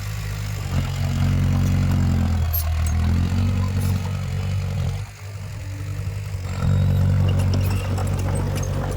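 Heavy diesel engine of earthmoving equipment running, dropping off briefly about five seconds in and picking up again about a second and a half later, with faint clicks over it.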